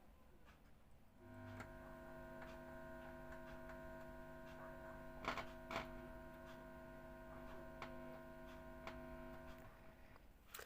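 Faint, steady mains hum from a home-built 3773 amplifier board and its speaker. It comes in about a second in and cuts off near the end, with two clicks in the middle. The amplifier passes no audio, only hum, and the builder suspects the chip board is totally blown from being fed 30 V where 12 V was meant.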